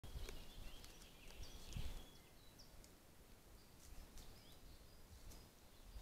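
Faint woodland ambience: scattered short, high bird chirps over a low rumble, with a lull in the middle.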